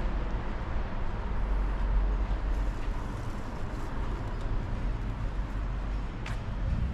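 City street traffic: a steady rumble of vehicles passing, with a short sharp click near the end.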